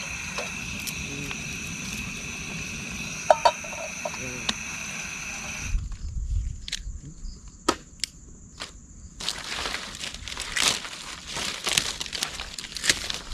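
Evening insect chorus, a steady high-pitched drone at two pitches, with a few clicks. It stops abruptly about five and a half seconds in and gives way to scattered sharp knocks and clicks, then dense crunching and rustling.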